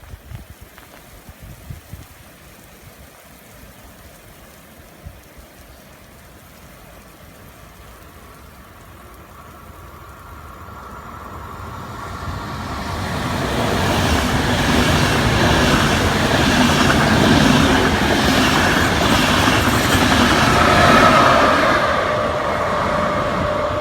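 A train approaches and runs through the station, growing louder from about ten seconds in until its wheels and running gear fill the last ten seconds, with a couple of steady tones riding on the noise.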